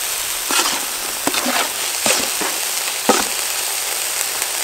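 Beef and garlic sizzling in hot oil in a wide pan, with about five sharp knocks and scrapes of a metal spatula stirring the meat.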